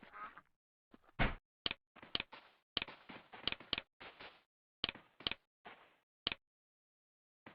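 An irregular series of sharp knocks and clicks, about a dozen, some with a short ringing tail, stopping about six seconds in.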